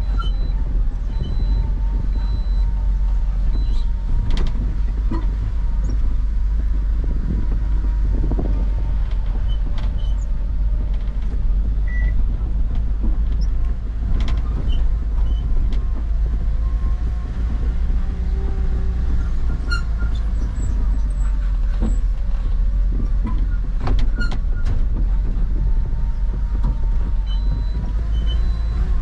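Truck running on the road with a steady, heavy low rumble, with scattered sharp clicks and rattles throughout.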